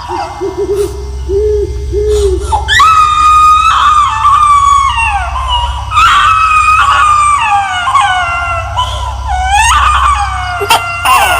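Horror sound effect of a baby wailing: long high cries that slide down in pitch, over a steady low drone.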